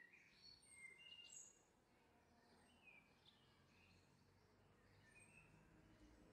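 Near silence with faint, scattered high bird chirps.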